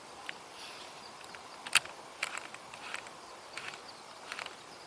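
Scattered light clicks and taps from handling a fishing rod and reel, the loudest about two seconds in, over faint insect chirring.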